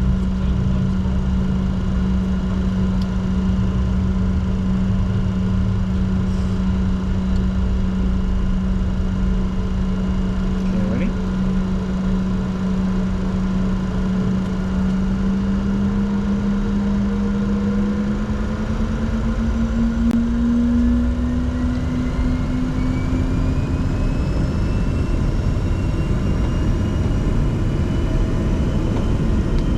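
Cockpit noise of a Bombardier Challenger 604's GE CF34 turbofan engines: a steady rumble and whine that, from about midway, rises in pitch over several seconds as the engines spool up.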